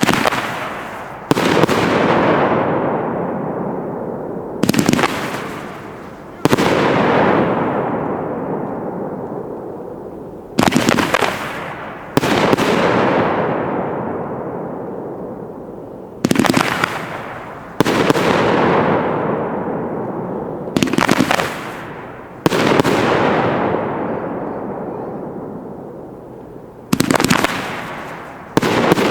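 A 500-gram consumer fireworks cake, Intergalactic Keggar, firing its crackling willow shots one at a time. Each shot is a launch thump followed about a second and a half later by a bang and a long crackling fizz that fades over several seconds. This happens six times, spaced a few seconds apart.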